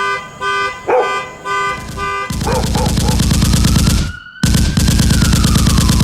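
Car alarm going off: a repeating beep about twice a second, then, a couple of seconds in, a loud rapid pulsing siren with a wail that rises and falls. A dog barks a few times over the beeping.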